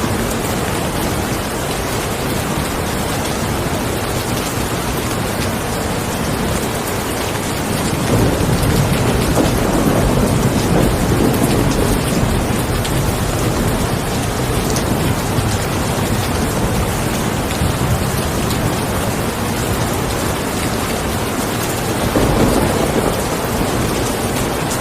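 Steady heavy rainfall, with a long low rumble of thunder swelling up about eight seconds in and another shorter one near the end.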